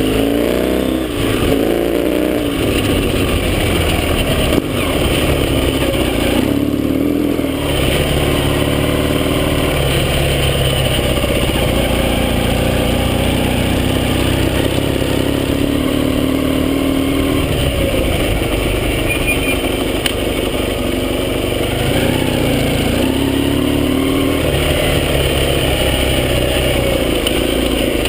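Yamaha XS650 air-cooled parallel-twin engine running under way, its revs rising and falling again and again as the throttle is opened and closed. One sharp knock about four and a half seconds in.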